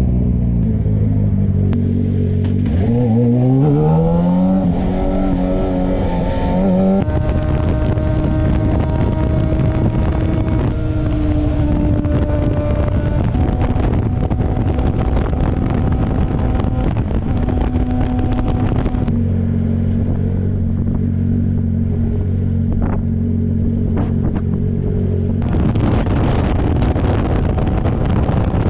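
Yamaha FZ6R's inline-four engine running under way: the revs climb steeply for a few seconds, then settle into steady cruising with road and wind noise. The wind rush swells near the end.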